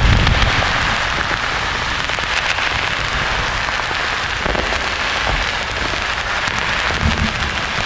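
Steady rain-like white-noise hiss with the tail of a thunder rumble dying away in the first half second.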